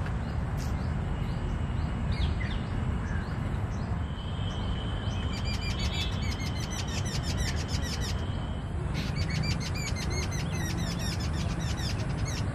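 Birds chirping in two long runs of quick repeated high notes, several a second, through the middle and later part, over a steady low rumble.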